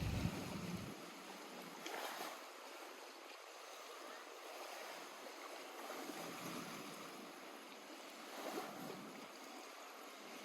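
Lake water gently lapping at the shore, faint, swelling slightly about two seconds in and again later on. A gust of wind on the microphone dies away about a second in.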